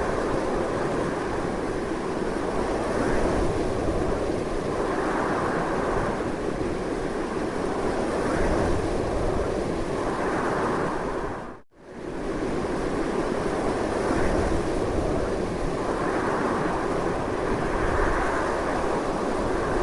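Strong, steady wind, swelling a little every few seconds. The sound drops out briefly about halfway through and then comes straight back.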